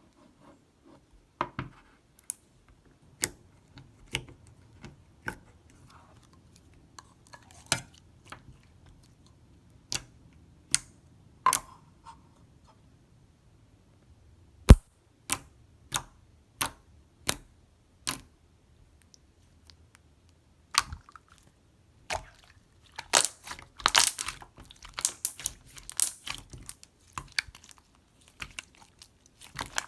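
Mixed water-jelly slime being pressed and poked by hand, making sharp, wet clicking pops. They come one at a time every second or so at first, then in quick dense clusters near the end.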